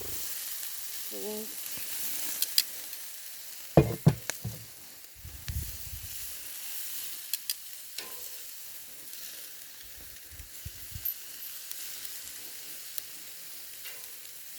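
Pork chops sizzling on a grill over campfire coals: a steady high hiss with scattered sharp pops. A few loud knocks come about four seconds in.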